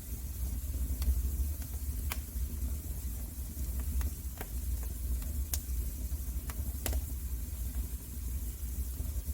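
Wood fire crackling in a fireplace: irregular sharp pops and snaps over a steady hiss and low rumble.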